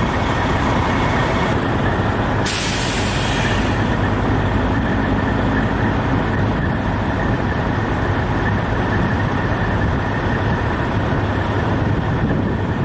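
Diesel engine of a car-carrier truck idling with a steady low rumble, with a sharp burst of air hiss from its air system about two and a half seconds in, lasting about a second.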